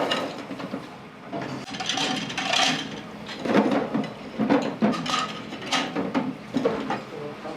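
Metal spatulas tapping and scraping on a flat iron griddle, an irregular clatter of knocks and scrapes.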